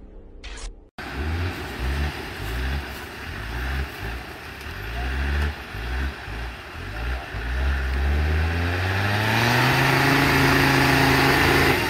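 Music cuts off about a second in. Then an off-road 4x4's engine revs hard in repeated bursts, climbing and dropping, while driving through mud. Near the end it is held at high revs for several seconds with a strong hiss, and it drops off at the very end.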